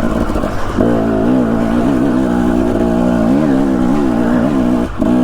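Husqvarna TE250 enduro dirt bike engine running under a rider, its pitch rising and falling as the throttle is worked, with a brief drop about five seconds in.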